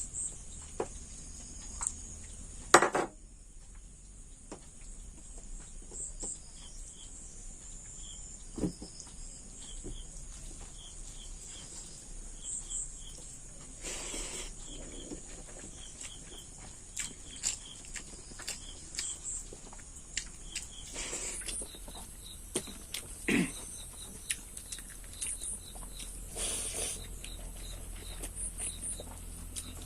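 Eating sounds: scattered soft clicks and mouth noises of someone eating rice and curry by hand, with a sharp knock about three seconds in. Faint, short high chirps repeat in the background throughout.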